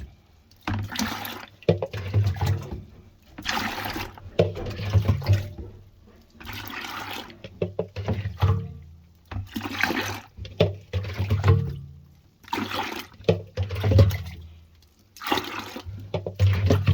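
LG washing machine with water sloshing and gurgling in repeated bursts, each about a second long and coming every second or two, with a low motor hum under each burst.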